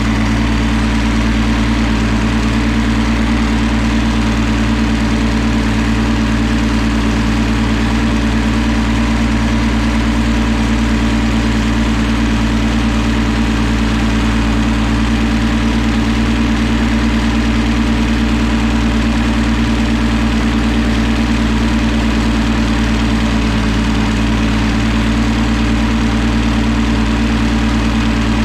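Tractor engine running at a steady speed, loud and unchanging throughout.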